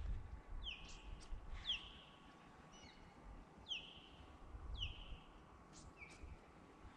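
A bird calling repeatedly: about six short, high notes, each sliding sharply down and then holding a steady pitch for a moment, spaced irregularly a second or so apart.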